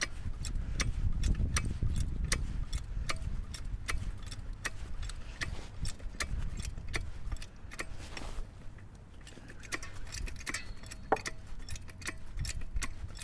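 Trolley jack being pumped to lift a log: a steady run of light metallic clicks, a few a second, as the handle is worked, over a low rumble.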